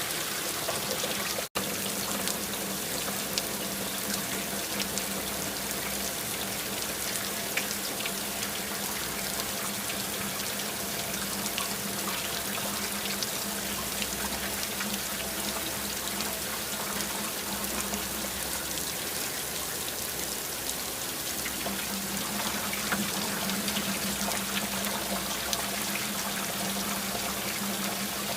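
Steady rain falling, with many small drop ticks over an even hiss and a trickling, running-water sound underneath. The sound cuts out for an instant about a second and a half in.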